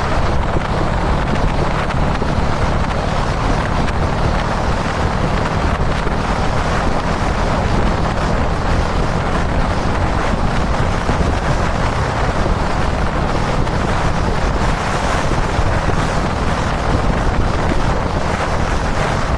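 Kawasaki Dominar 400's single-cylinder engine running steadily at highway cruising speed, under heavy wind rush on the camera microphone.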